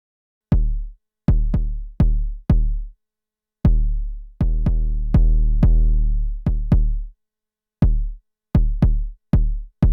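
Arturia DrumBrute Impact's analog kick drum with its Color drive switched on, played as a run of separate hits in an uneven pattern. Each hit is a sharp click falling quickly to a deep booming tone, with a few longer-ringing hits in the middle. The Color drive gives the kick a more aggressive edge.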